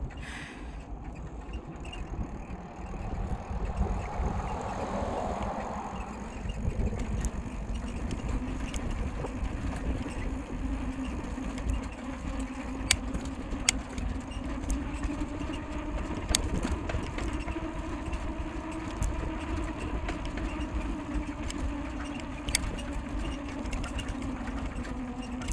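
Bicycle coasting downhill: wind rushing over the microphone with a steady hum from the tyres, and a few sharp ticks and squeaks from the bike, which is squeaky after being left in the rain without lubrication.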